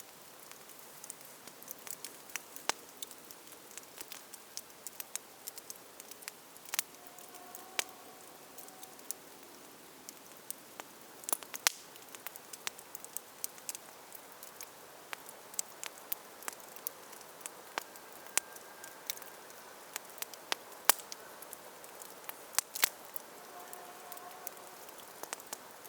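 Wood campfire burning, crackling with frequent irregular sharp pops over a soft steady hiss.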